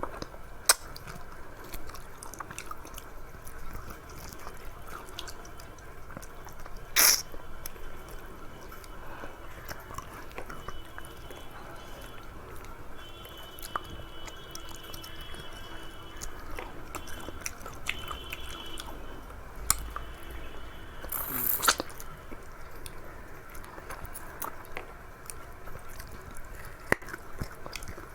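A person chewing and eating a rice and curry meal, with wet mouth clicks and smacking throughout. Twice, about 7 and 21 seconds in, there is a louder brief noise.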